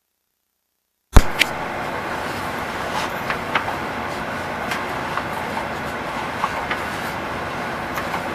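Sewer inspection camera audio: after about a second of dead silence a loud pop, then a steady rushing hiss with scattered clicks and knocks as the camera head moves through the drain pipe.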